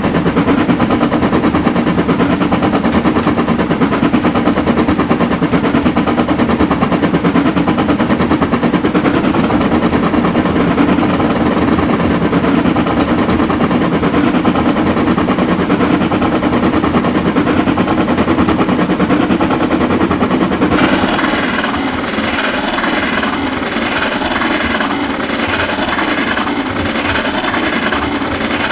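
Two Pacific-type steam locomotives working hard on a heavy train, their exhaust beats coming in a rapid, continuous chuffing. About three-quarters of the way through, the low beat drops back and the sound becomes a lighter, higher rattle.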